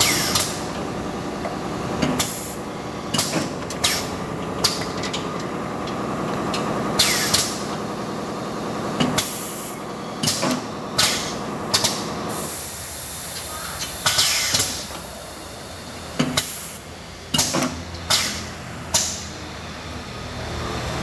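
Automatic wood drilling machine running: a steady motor hum under repeated short hisses of compressed air from its pneumatic feed and clamp cylinders. The motor hum stops a little past halfway, while the air hisses carry on.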